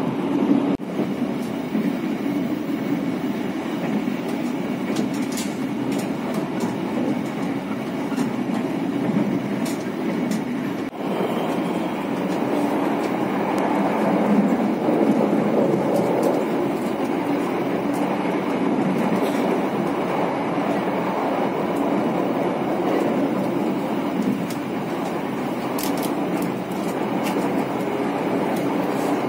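Passenger train running at speed, heard on board: a steady rumble of wheels on rail, with a few sharp clicks.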